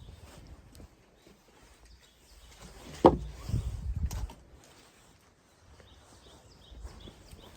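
A sharp knock about three seconds in, followed by a few dull thumps over the next second, then quieter faint rustling.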